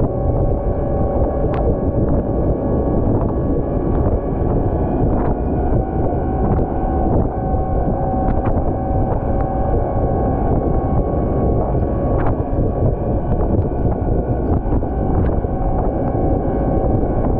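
Volvo L110 wheel loader's diesel engine running steadily under load while it plows snow, with a steady whine in the mix and a few light knocks.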